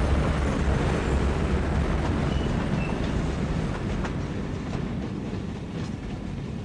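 Passenger train rolling along the rails: a steady low rumble with a few faint wheel clicks over rail joints, slowly fading.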